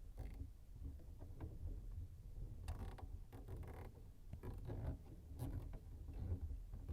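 Faint handling noise: irregular small knocks, creaks and rustles of parts and tools being worked by hand, over a low rumble.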